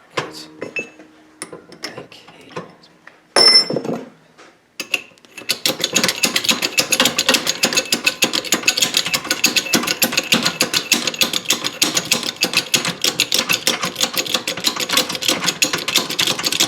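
Shop press running with a rapid, even clatter from about five seconds in, pressing link pin bushings into a VW front beam. Before that come a few metal clicks and one loud clank of metal that rings, about three and a half seconds in.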